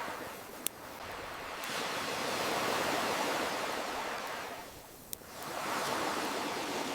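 Ocean waves washing in and drawing back, swelling about halfway through and ebbing before the next wave builds near the end. Two sharp pops of a crackling campfire cut through, one shortly after the start and one about five seconds in.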